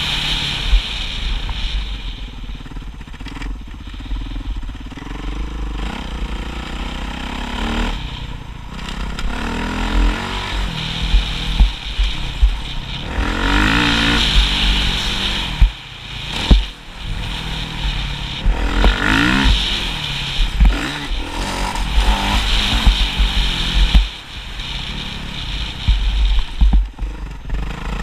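Motocross motorcycle engine revving up and down again and again, its pitch rising and falling as it accelerates and backs off, with a heavy low rumble underneath.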